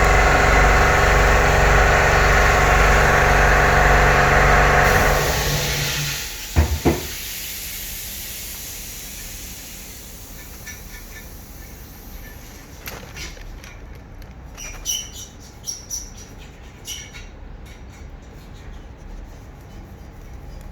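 Engine idling steadily, then switched off about five seconds in and running down within a second. Two sharp knocks follow, then a few faint scattered clicks.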